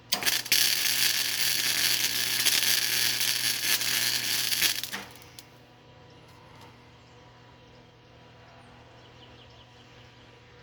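Flux-core MIG welding arc crackling for about five seconds, then cutting off when the trigger is released. A low steady hum carries on after it.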